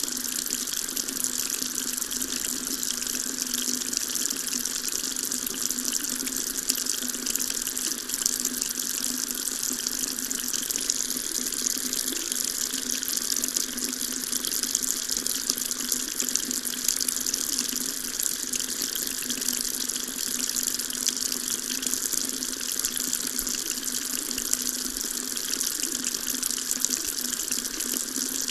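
Water tap running steadily, a continuous even splashing stream of water into a sink.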